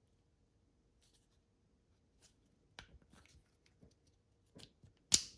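Small plastic parts of a car key being handled and fitted, with a few faint clicks, then one sharp snap about five seconds in as a part clicks into place in the new key shell.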